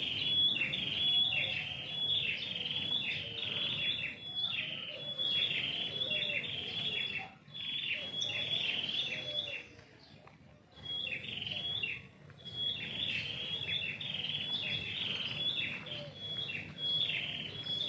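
A songbird singing: long runs of quick, high chirping notes, broken by a few short pauses.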